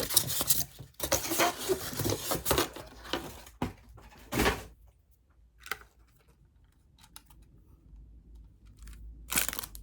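Paper and packaging rustling, scraping and tearing as a book parcel is unpacked by hand, dense for the first few seconds, then a few scattered clicks in a quieter stretch, and rustling again near the end.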